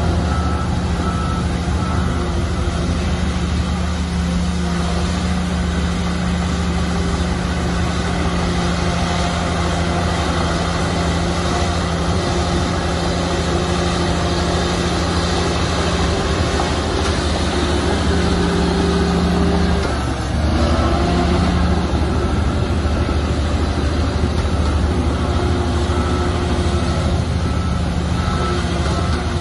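Heavy diesel earthmoving machinery, bulldozer and dump trucks, running steadily under load. The engine dips briefly about two-thirds of the way through. A reversing alarm beeps near the start and again near the end.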